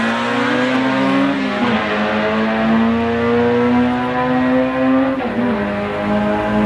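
Turbocharged four-cylinder engine of an AWD DSM accelerating hard. Its pitch climbs, then drops sharply with an upshift about one and a half seconds in and another about five seconds in, and climbs again.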